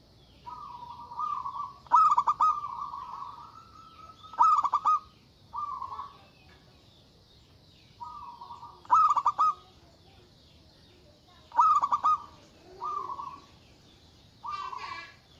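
Zebra dove (perkutut) singing: a string of cooing phrases, each a purring coo held on one pitch, several broken into a fast stuttering rattle, repeated every one to three seconds.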